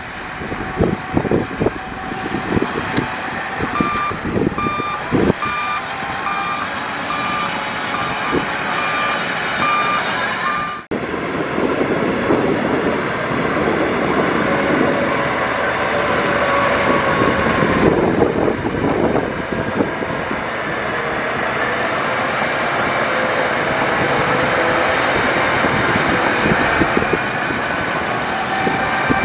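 Heavy earthmoving machinery working, with diesel engines running among knocks and clanks. A reversing alarm beeps steadily, about two beeps a second, from about four seconds in until a sudden break near eleven seconds. After the break a diesel engine runs steadily under load with its pitch wavering.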